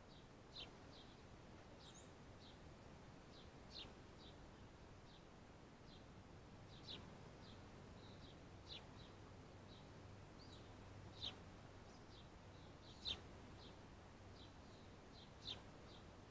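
Faint, irregular short chirps of small birds, a few sharper ones standing out, over a quiet background.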